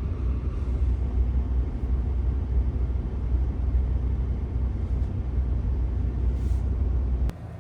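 Steady low rumble of a vehicle driving, heard from inside the cabin; it cuts off abruptly near the end.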